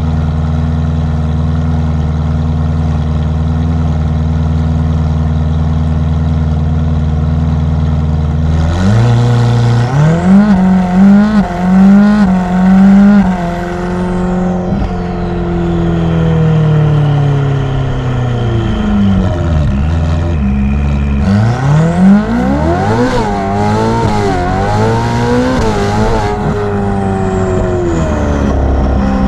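Ferrari F8's twin-turbo V8 through a Novitec aftermarket exhaust, running steadily and then, about nine seconds in, accelerating hard, the pitch rising and dipping several times. Its pitch falls away as the car slows, climbs again with more rises and dips, and settles near the end.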